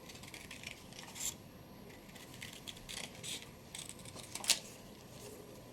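Scissors cutting through paper and card: a run of short, irregular snips, with one louder snip near the end.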